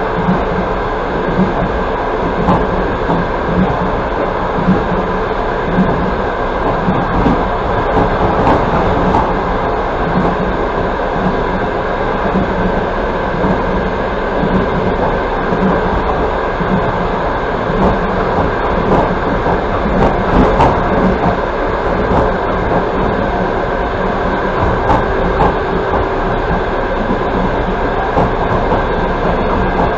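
Passenger train running at speed, heard from inside the carriage: a steady rumble of wheels on the rails with light, irregular knocks from the track.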